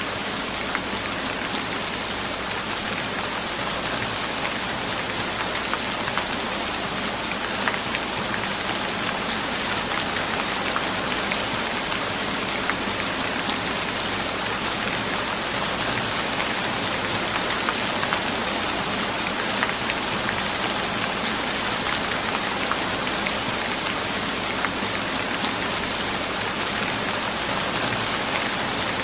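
Steady rain, a continuous hiss with many small drops ticking on a surface.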